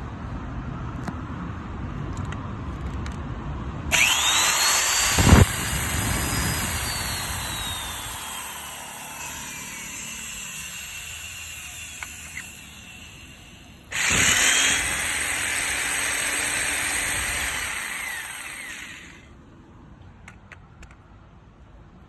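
A small corded power tool's electric motor switched on twice. Each time it spins up with a whine rising in pitch, runs and then winds down. A loud knock comes just after the first start.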